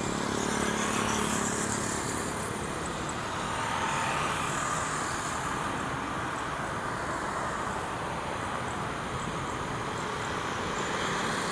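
Jet airliner engines heard at a distance as a steady broad roar, swelling slightly about four seconds in.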